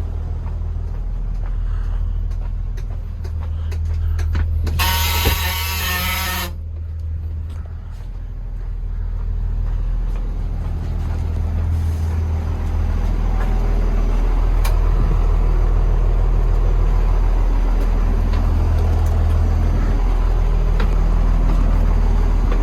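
Cummins ISB 5.9-litre inline-six turbodiesel running steadily. About five seconds in, a loud hiss of air from the air brake system lasts under two seconds, and from about thirteen seconds in the engine runs louder.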